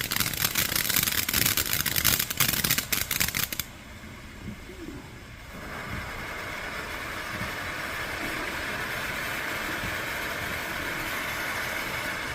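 Consumer fireworks going off: a dense, rapid crackling starts suddenly and stops after about three and a half seconds. After a short lull, a steady hiss of spraying sparks sets in about six seconds in.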